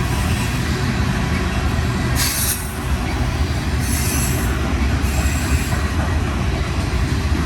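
Freight train rolling past with a steady low rumble of wheels on rail. Twice, briefly, high screeching from the wheels rises over it.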